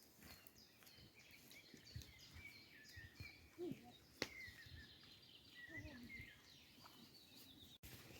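Faint birdsong: several small songbirds chirping and trilling in quick, repeated phrases, with a few soft knocks.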